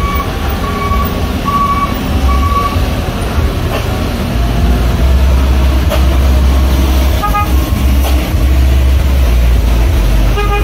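Heavy truck's diesel engine running with a loud, steady low rumble, with short horn toots about seven seconds in and again near the end.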